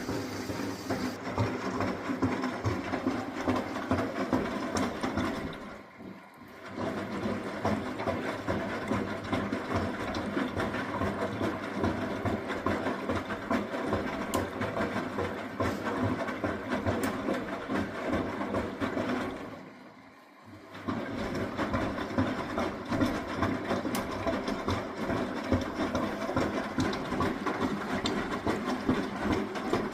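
Miele W423 front-loading washing machine running a wash: motor and drum tumbling the load. The sound fades out briefly about six seconds in and again about twenty seconds in, as the drum pauses and changes direction.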